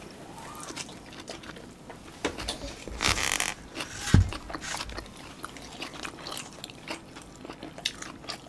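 Close-miked chewing, with small wet smacks and clicks, from two people eating North Korean tofu rice and artificial-meat rice by hand. A short burst of noise comes about three seconds in, and a dull thump comes just after four seconds.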